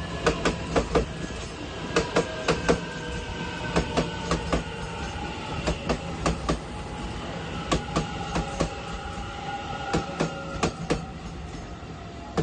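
Taiwan Railway EMU900 electric commuter train pulling out and rolling past car by car, its wheels clicking over the rail joints in clusters every second or two, over a low rumble and a steady whine.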